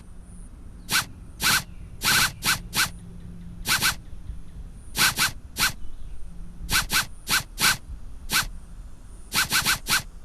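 Cat-game sound effect: short scratchy, zip-like rasps repeating at uneven intervals, singly and in quick runs of two to four, about twenty in all.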